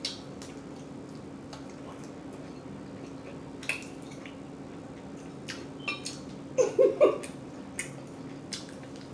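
Close, wet chewing and lip-smacking on a whole chicken wing: scattered short smacks and clicks, with a cluster of louder smacks about seven seconds in. A faint steady hum runs underneath.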